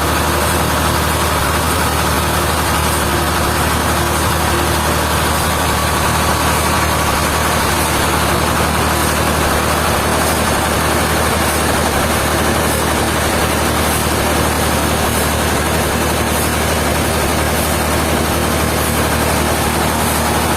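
A heavy engine running steadily at idle, a constant low hum under machine noise.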